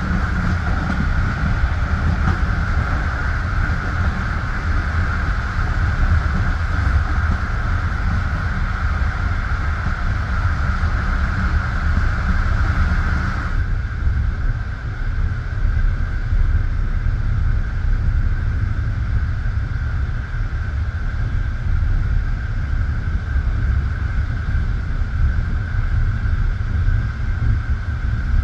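Passenger train running along the line, heard from inside the carriage at the window: a steady rolling rumble of wheels on rails with a hiss above it. About halfway through, the high hiss drops off suddenly and the rumble carries on.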